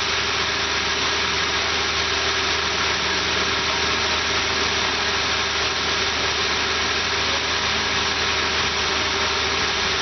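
A 1998 Dodge Intrepid V6 engine idling steadily under test, with no change in speed; the engine tested good.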